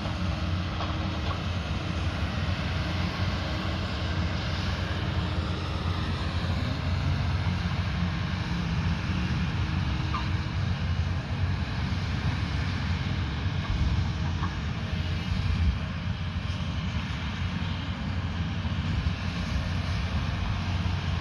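Diesel engine of an earthmoving machine running steadily under work, a continuous low drone with a few faint ticks.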